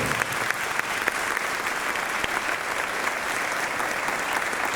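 Audience applauding steadily: a dense patter of many hands clapping, right after a choir's singing stops.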